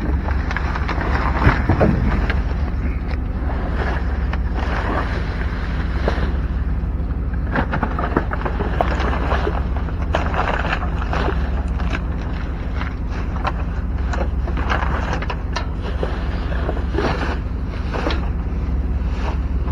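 Steady low rumble of a running vehicle engine, with irregular rustling, clicks and knocks of boxes and bags being handled over it.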